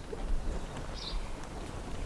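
Wind buffeting the microphone in uneven low gusts, with a short high chirp about once a second.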